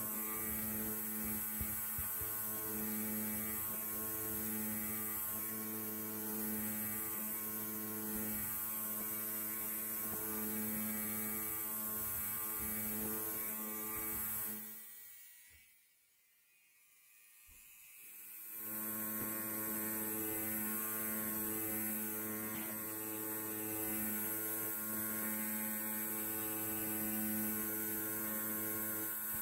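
Electric hair trimmer buzzing steadily. About halfway through, the buzz fades away for a couple of seconds, then comes back.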